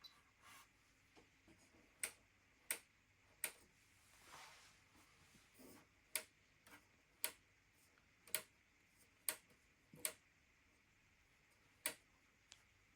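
Sharp clicks at irregular intervals, about ten of them, with near silence between: the controls on an AEG washing machine's panel being clicked through the programs and options.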